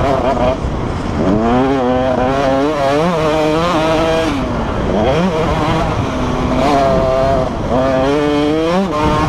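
Motocross motorcycle engines revving hard, the pitch climbing and dropping again and again as the riders work the throttle and shift gears.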